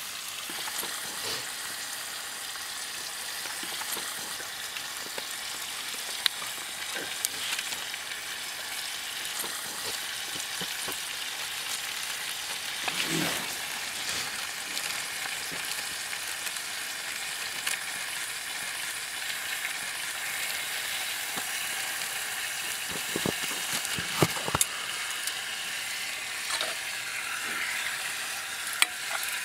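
Sliced roast beef, peppers and onions sizzling steadily in olive oil in a cast iron skillet, with a few sharp clicks scattered through.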